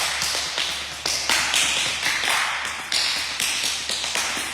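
Palms patting the body in a warm-up self-massage: a steady run of slaps, about two or three a second, each dying away quickly.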